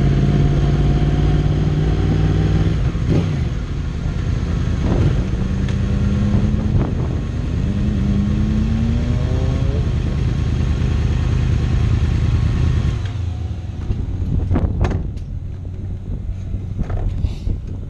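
2014 Yamaha YZF-R1's crossplane inline-four running at low revs as the bike rolls slowly, its note rising in pitch twice in the middle. About thirteen seconds in the engine note drops away sharply, leaving a quieter rumble and a few clicks.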